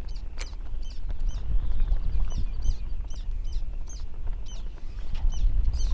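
Birds giving short, high chirping calls in quick succession, several a second, over a steady low rumble of wind on the microphone.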